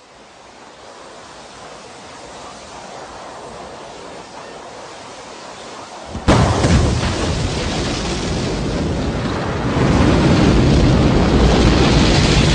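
Rocket launch noise: a rushing rumble fades in and slowly builds. About six seconds in, a sudden much louder blast of deep engine noise starts and keeps going, growing louder again near ten seconds.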